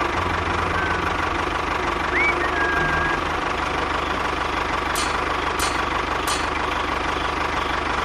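Tractor engine idling with a steady low chug. A few faint high chirps come in the first few seconds, and three sharp clicks follow, about two-thirds of a second apart, around five to six seconds in.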